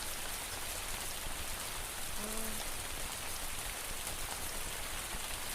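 Steady rain falling. A faint, brief voice-like sound comes through about two seconds in.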